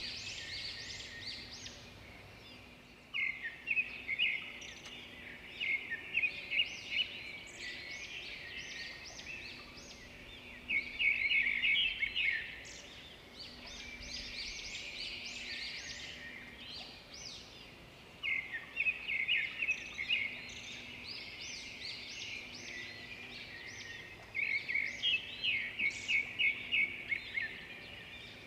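Songbirds singing: phrases of quick, high chirps and trills a few seconds long, repeated after short pauses, over a faint steady low hum.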